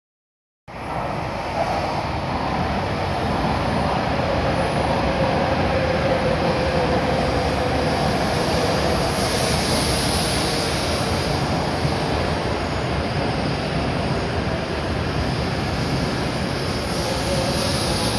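E7 series Shinkansen train running slowly along the platform as it pulls into the station, a steady rumble of wheels and running gear. The sound cuts in suddenly just under a second in.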